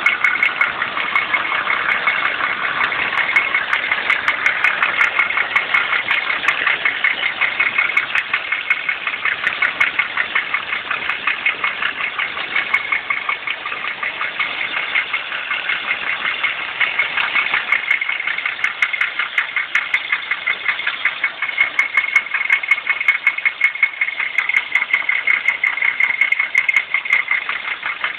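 Toyota 1JZ-GE 2.5-litre inline-six running steadily with a regular, rapid knock beating in time with the engine, which the owner locates near cylinders 5 and 6.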